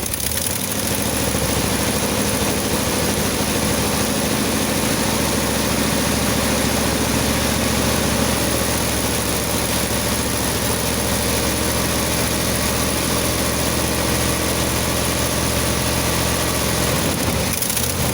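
Carbureted 350 (5.7 L) Vortec V8 with homemade headers idling steadily just after catching from a cold start. With the Edelbrock carburetor's choke not working, it is running rich.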